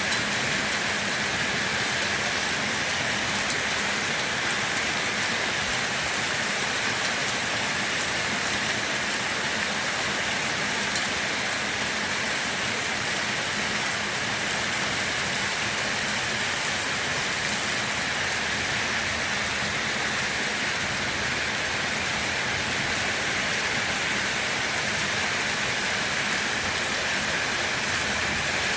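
Steady heavy rain falling, an even hiss of countless drops with no change.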